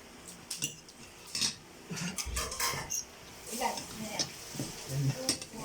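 Utensils clinking and scraping against dishes in a series of irregular light knocks.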